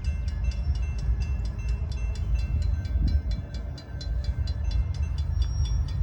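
CSX freight train rolling slowly past with a steady low rumble, under a rapid, even ticking of about five strokes a second.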